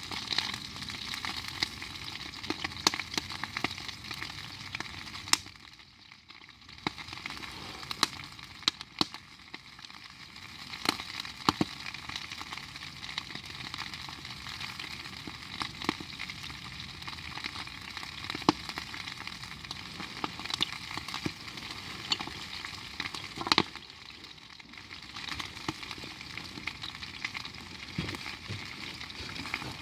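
Cooking over a campfire: a steady sizzle with frequent sharp pops and crackles scattered irregularly, with a few louder cracks.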